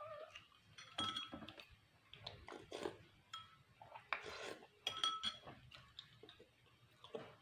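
Eating utensils clinking and scraping against a dish, with a few sharp ringing clinks, the clearest about a second in and again near five seconds in.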